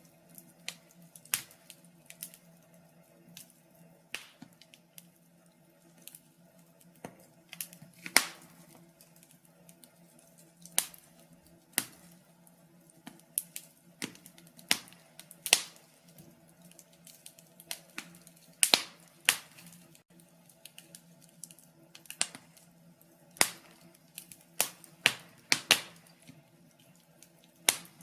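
Wood fire crackling in a fireplace: irregular sharp pops and snaps, several of them loud, over a faint steady low hiss of the burning.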